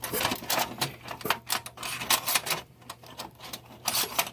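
Metal drill bits clicking and clinking as they are handled and swapped in a drill bit set, a quick irregular run of sharp clicks with a few louder clinks.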